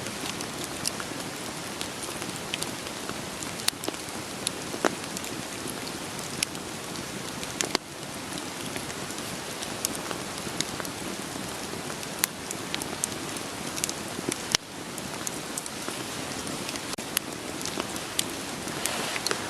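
Steady rain hiss with scattered sharp pops and crackles of burning firewood in a campfire.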